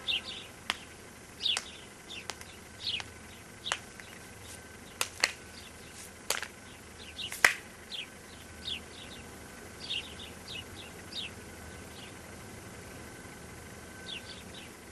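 Birds chirping in short, high, falling chirps, a few at a time, over a faint background hiss, with scattered sharp clicks; the loudest click comes about seven and a half seconds in.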